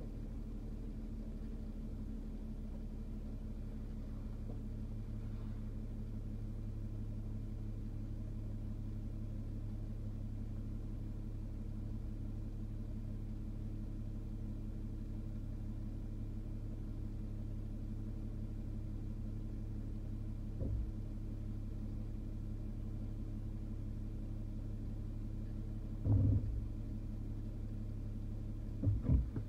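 A car's engine idling steadily while the car stands still, with a few brief thumps in the last ten seconds.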